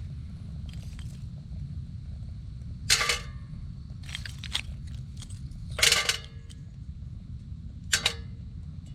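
Metal cookware and utensils clanking sharply four or five times, with short ringing tails, over a steady low rumble.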